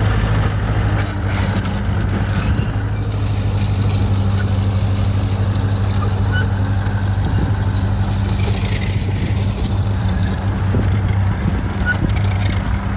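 Heavy earthmoving machine's diesel engine running at a steady pitch, with scattered metallic clinks and rattles over it.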